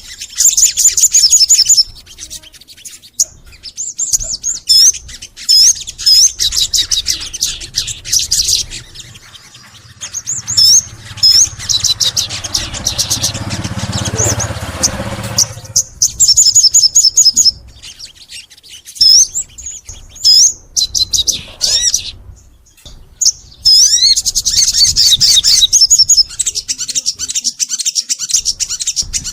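Sogon songbird singing in long bursts of rapid, high chirps, trills and swooping notes, broken by brief pauses. A low rushing noise sits under the song around the middle.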